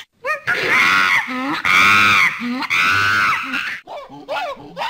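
Monkey screaming: three loud, long, shrill calls, then quicker short falling calls near the end.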